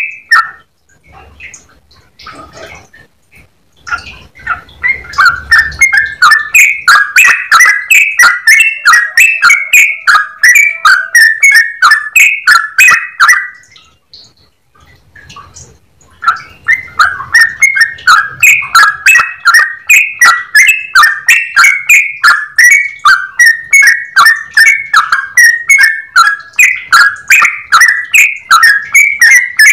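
Yellow-vented bulbul (trucukan) singing its long, rapid chattering 'ropel' song, a string of bubbly whistled notes a few per second. The song breaks off twice for about three seconds, just after the start and around the middle.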